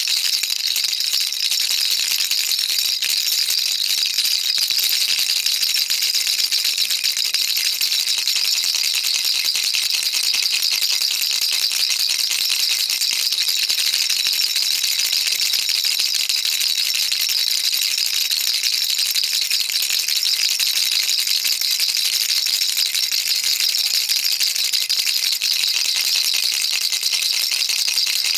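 Baby rattle shaken continuously, a dense, steady, high-pitched rattling of small beads with no breaks.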